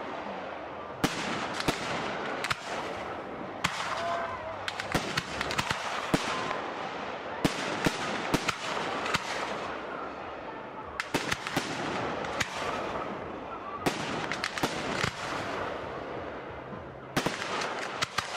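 Display firework shells bursting overhead: a run of sharp bangs, several close together, over a dense crackling hiss from the burning stars.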